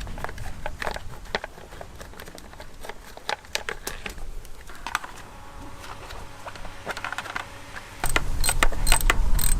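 Scattered metallic clicks and clinks of tools and bolts being handled while a plastic front mudguard is bolted onto a pit bike. Near the end it gets louder, with a low rumble under the clicks.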